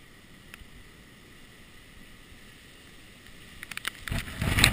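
Faint steady hiss with a few light clicks, then near the end a sudden loud rush of hurricane wind buffeting the camera, muffled by the GoPro's waterproof housing.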